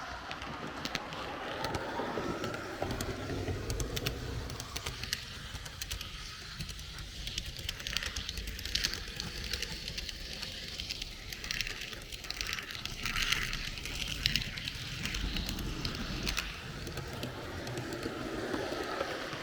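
H0 scale model train rolling along the track, a steady low rumble of wheels and motor with many small clicks.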